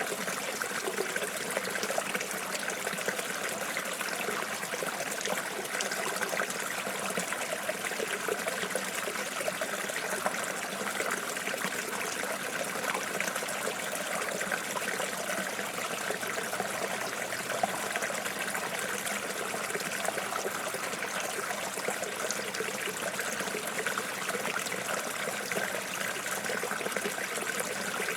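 Running water flowing steadily, a continuous trickling with many small splashes and no change in its flow.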